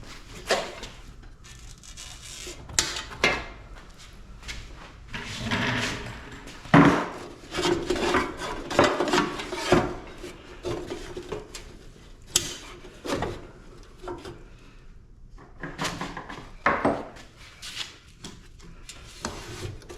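Hand tools working on an air-conditioner unit being stripped for scrap: irregular metal clanks, knocks and scraping, busiest in the middle.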